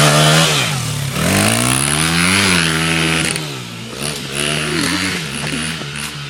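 Dirt bike engine revving hard up and down several times as the rider accelerates, consistent with pulling a wheelie. The pitch peaks about two and a half seconds in, then settles lower and wavers.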